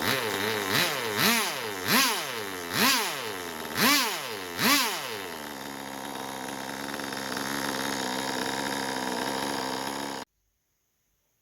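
Small 2.5 cc two-stroke nitro glow engine running, blipped up in pitch about six times in the first five seconds, then running steadily at a constant speed. The sound cuts off abruptly near the end.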